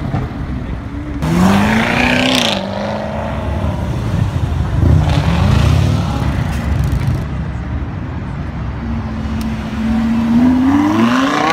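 Sports car engines revving and accelerating past at close range. There is a quick rev up and back down about a second in. Near the end a long rising pull comes from a Lamborghini Huracán's V10 accelerating away, and it cuts off abruptly.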